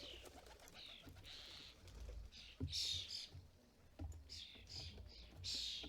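Common starlings at a feeder giving harsh, raspy calls, about five short bursts, the loudest near the middle and near the end, with scattered light clicks between them.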